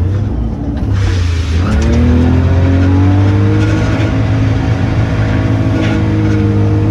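Car engine under hard driving: the engine note dips in the first second and a half, then climbs steadily as the car accelerates hard.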